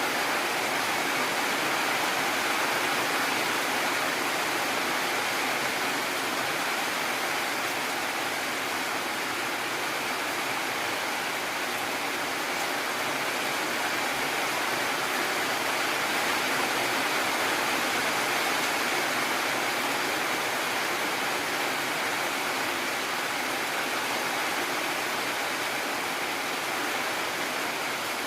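Heavy rain falling steadily, an even hiss without thunder.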